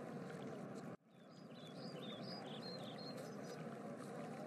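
Faint outdoor ambience of birds chirping, short high notes over a steady hiss, with a brief dropout about a second in.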